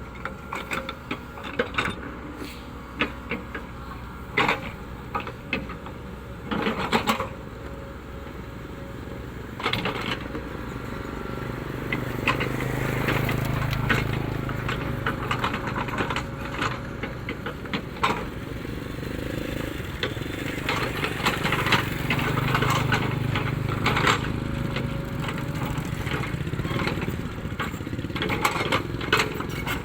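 Caterpillar 307E2 mini excavator working: its diesel engine runs steadily and swells twice under load, about twelve seconds in and again about ten seconds later, with frequent sharp knocks and clanks.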